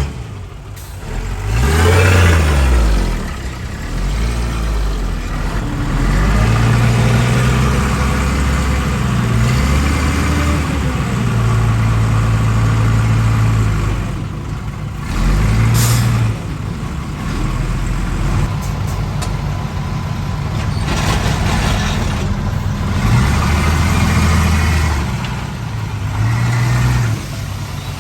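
Heavy diesel engines of a bulldozer and dump trucks at work, revving up and dropping back again and again, with a short hiss about sixteen seconds in.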